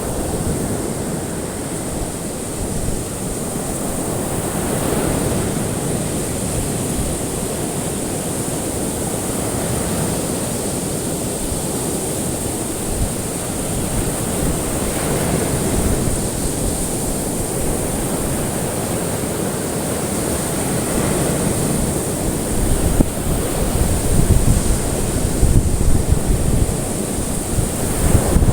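Ocean waves washing in a steady surf, swelling gently about every five seconds. A low rumble grows louder over the last several seconds.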